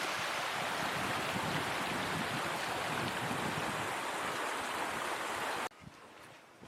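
Steady rush of moving water, with no rhythm or single events in it. It cuts off abruptly a little before the end, leaving a much quieter background.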